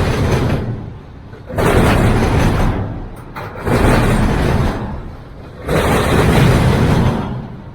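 A freight train's cars rolling past close by: the rumble and clatter of the wheels rise and fall in even swells about every two seconds as each car goes by.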